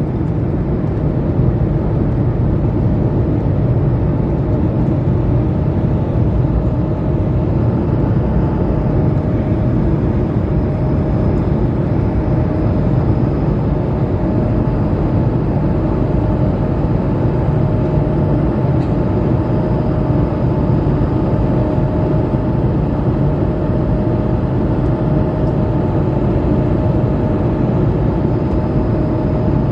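Steady cabin roar inside an Airbus A220-300 airliner, from its Pratt & Whitney PW1500G geared turbofans and the airflow, with a faint steady hum tone running through it.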